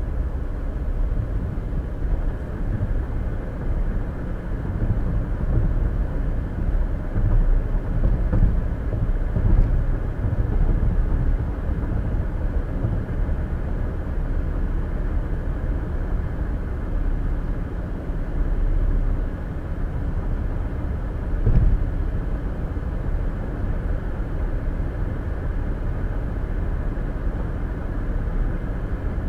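Steady low road and tyre noise heard inside a car cruising at highway speed.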